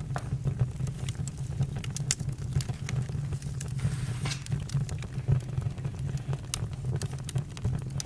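Campfire burning: scattered sharp crackles and pops over a steady low rumble, with a short hiss about four seconds in.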